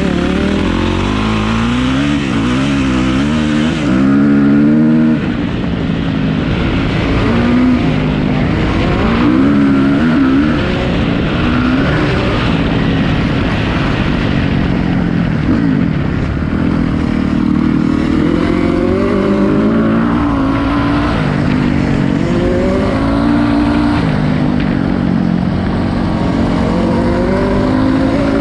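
Motocross bike engine at full throttle under hard riding, the revs climbing and dropping again and again as the rider accelerates, shifts and backs off through the trail.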